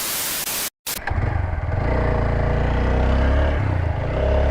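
TVS Apache RTR 160 4V motorcycle's single-cylinder engine running as the bike rides along, its pitch rising slightly. It is preceded in the first second by a short burst of rushing noise and a brief dropout.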